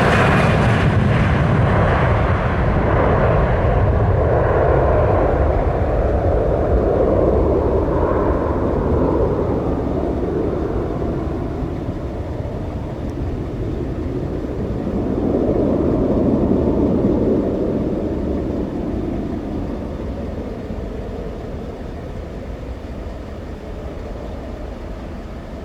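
Embraer E175 jet at takeoff power, its two General Electric CF34 turbofans loud at first and then fading gradually as it climbs away, with a brief swell partway through.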